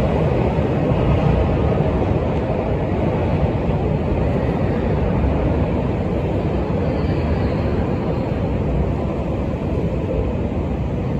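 JR Hokkaido 735-series electric multiple unit running, a steady noise of motors and wheels on the rails.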